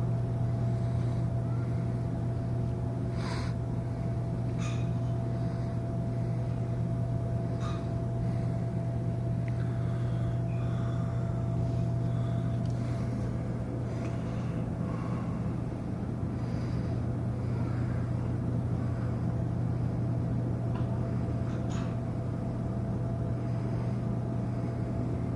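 Cruise ship's machinery running steadily during docking: a constant low hum with a thin steady whine above it, and a few faint scattered clicks.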